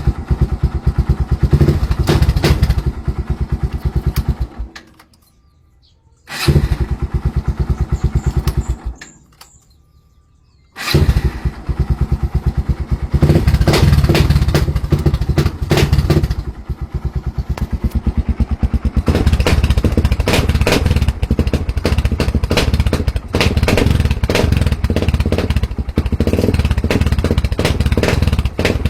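Kawasaki Barako II 175 single-cylinder motorcycle engine catching, running a few seconds and dying away, twice; it catches a third time about eleven seconds in and keeps running with uneven revs. Stalling soon after starting, the hard-starting problem the owner asks about.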